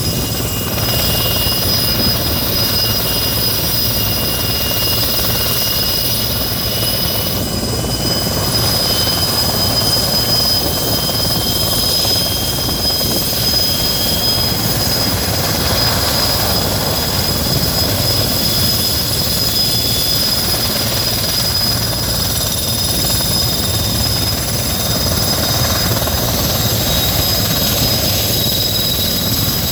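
Sikorsky S-64 Skycrane helicopter running loud and steady on its twin turboshaft engines, with high-pitched turbine whines over the rotor noise; one whine slowly rises in pitch.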